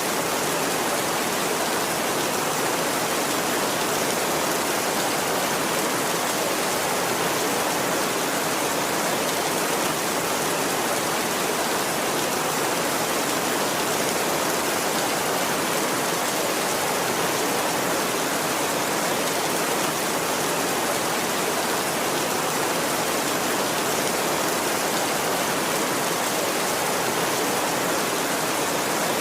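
Heavy rain drumming steadily on a tin roof, an even, unbroken hiss with no thunder in this stretch.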